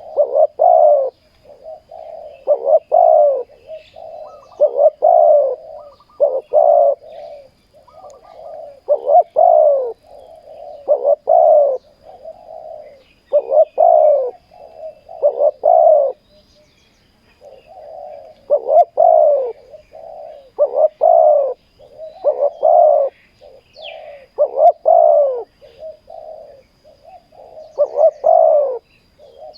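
Spotted doves cooing over and over, each loud phrase coming about every two seconds with softer coos in between.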